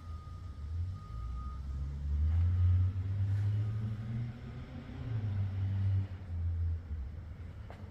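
Engine of a 1968 Pontiac Firebird, a low rumble that swells twice, about two to three seconds in and again near six seconds, with its pitch rising in between as it speeds up.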